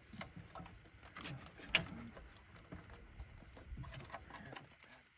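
Faint scattered knocks and rustling of parts being handled in an engine bay, with one sharp click a little under two seconds in.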